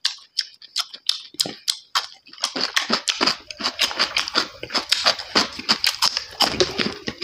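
Close-up crunching and chewing of crispy fried pork fat: scattered sharp crunches at first, then a fast, dense run of crunches from about two and a half seconds in.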